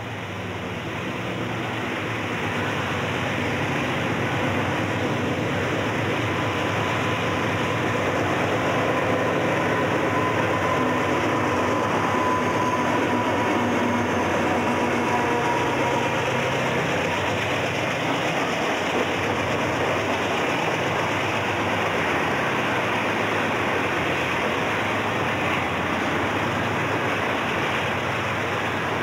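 Diesel freight locomotives pulling hard up a grade as they pass close by, growing louder over the first few seconds, followed by a long string of freight cars rolling past with steady wheel-on-rail noise.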